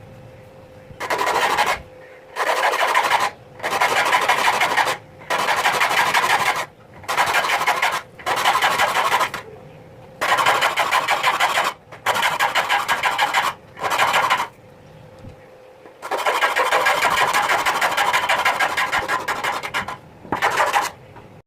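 Hand saw cutting wood in a series of back-and-forth strokes, each about a second long with brief pauses, then a longer run of quicker strokes near the end.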